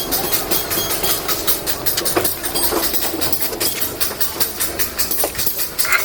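A machine running with a steady hum and a fast, regular clatter of about four to five clicks a second.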